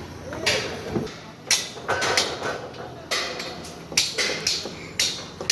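Irregular series of sharp knocks and clanks, about two a second, from tower crane assembly work.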